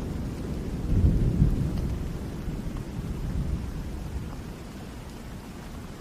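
Steady rain with a low rumble of thunder that swells about a second in and slowly dies away.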